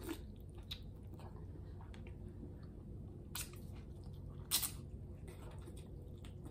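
A person chewing and biting king crab leg meat: quiet wet mouth sounds with a few short sharp clicks, the loudest about four and a half seconds in.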